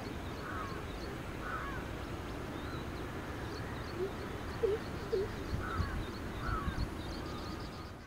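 Birds calling outdoors: a handful of short calls spread through, with faint high chirps and a few lower gliding notes about halfway through, over a steady background hiss.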